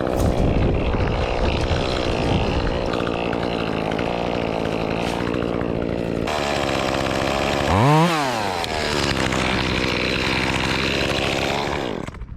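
Echo CS-2511T two-stroke top-handle chainsaw running steadily. About eight seconds in it revs up sharply and falls back, and it stops near the end.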